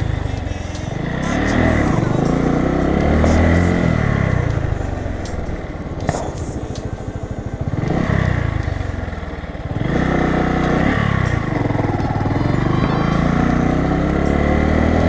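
Bajaj Boxer BM 150's single-cylinder four-stroke engine running under way, its pitch rising and falling repeatedly as it accelerates and eases off, dropping to low revs for a few seconds around the middle.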